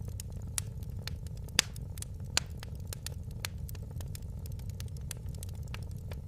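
Wood fire crackling in a fireplace: many small sharp crackles and a few louder pops, the loudest about a second and a half in, over a steady low rumble.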